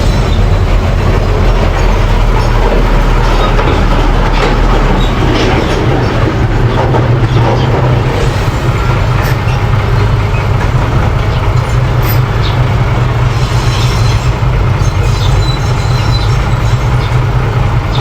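Mini bulldozer running under load: a steady diesel engine with the clanking and squeaking of its steel tracks and running gear.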